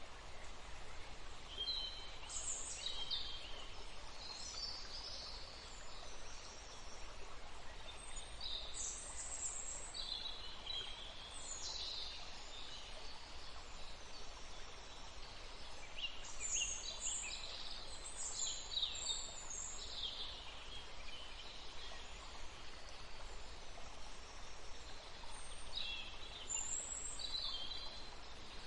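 Steady flowing water, an even rushing hiss, with small birds chirping in short clusters of high twittering calls throughout.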